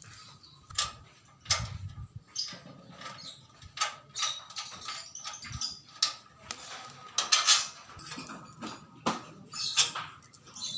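Irregular clicks, taps and light clinks, a dozen or so sharp hits at uneven intervals.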